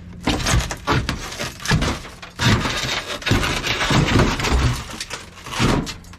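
A run of sharp knocks and clatter, with a longer stretch of scraping and crunching in the middle.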